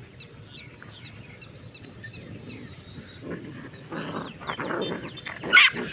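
Puppy growling and snuffling in play while mouthing at a hand, in short rough bursts that come more often and louder in the second half. Faint bird chirps sound in the background.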